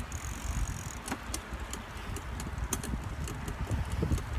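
Bicycle being ridden: a steady low rumble, with scattered clicks and rattles from the bike.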